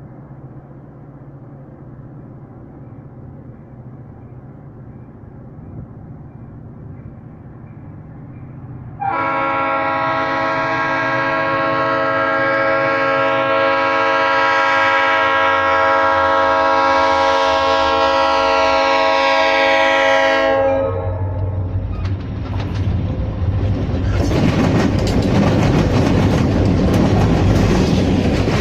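Approaching freight train's diesel locomotive sounding its Leslie RS-3L three-chime air horn in one long blast of about eleven seconds, over a low diesel rumble that grows as it nears. After the horn stops the locomotive's engine passes loudly, and from a few seconds later the wheels clatter over the rail joints as the cars roll by.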